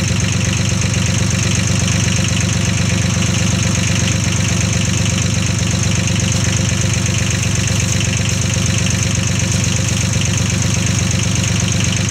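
Small tractor engine idling steadily at an even, unchanging speed.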